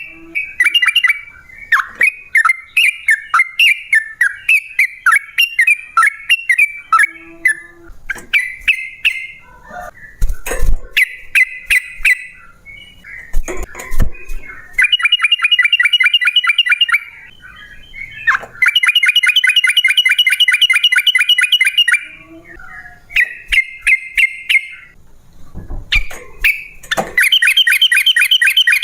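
Yellow-vented bulbul (trucukan) singing: a run of short, quick chirped notes, then long, fast rattling trills of several seconds each, separated by brief pauses.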